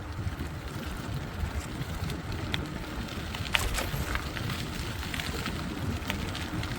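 Wind buffeting a phone microphone on a moving bicycle, over a steady low rumble from the ride, with scattered sharp clicks and rattles from about two seconds in, one louder click near the middle.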